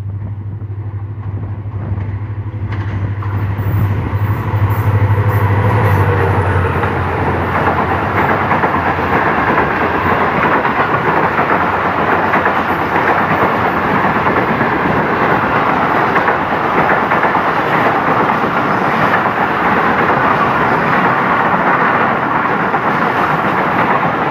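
HGMU-30R diesel locomotive approaching and passing close by at speed, its low engine hum loudest about five seconds in and gone about six seconds in. A long rake of passenger coaches then rolls past with a steady rumble of wheels on the rails.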